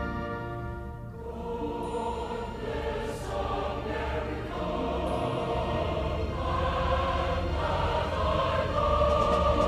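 Choral music: a choir singing sustained notes over a steady low accompaniment.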